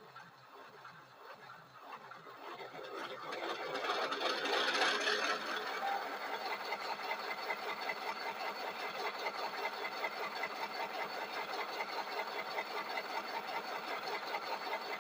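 Model diesel locomotive's sound decoder playing its startup sequence through the locomotive's small speaker: the prime mover turns over and fires, loudest about four to five seconds in, then settles into a steady, fast-beating idle.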